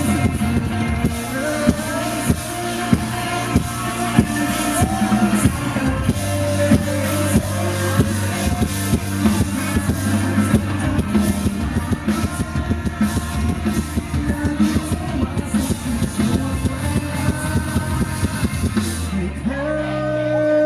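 Live band playing the song at concert volume, with a drum kit beating steadily under singing. About a second before the end the drums drop out, leaving held sung notes.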